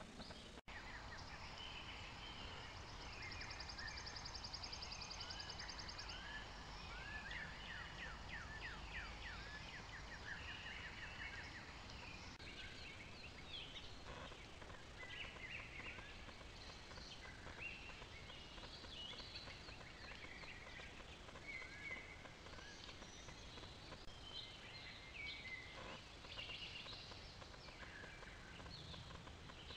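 Faint outdoor birdsong: many small birds chirping and trilling, with quick falling notes, over a steady background hiss.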